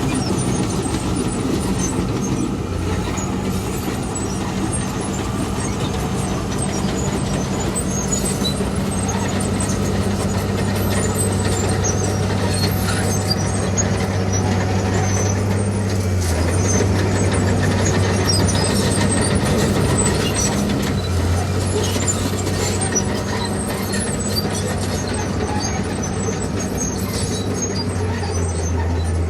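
Heavy diesel earthmoving machinery running steadily, its low engine note stepping up and down several times, with scattered light clatter over it.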